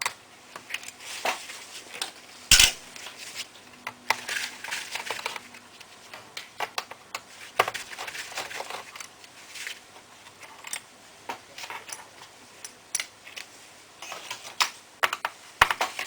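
Irregular clicks, taps and short scrapes of small plastic and metal parts as a Toshiba A300 laptop is taken apart by hand, with one sharp knock about two and a half seconds in.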